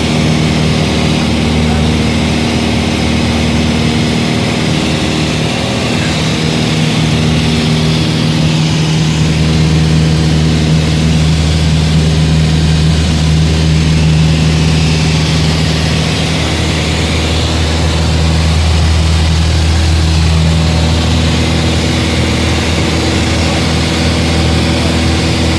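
Single-engine propeller airplane's engine running steadily, with a constant low drone.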